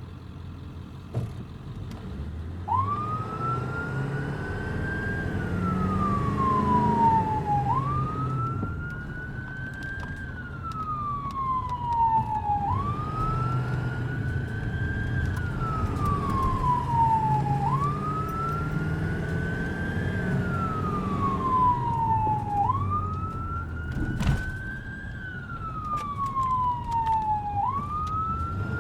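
Emergency vehicle siren on a wail setting, starting a few seconds in: each cycle rises quickly, then falls slowly, repeating about every five seconds over the low rumble of the vehicle's engine. A single sharp click sounds about three-quarters of the way through.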